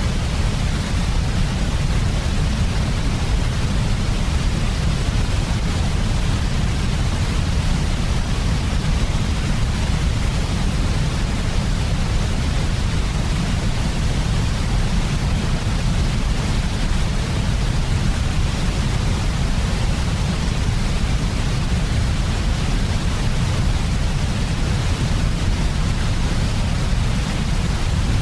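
Steady, unchanging synthetic white noise for baby sleep, with most of its weight in a deep low rumble and a thinner hiss above.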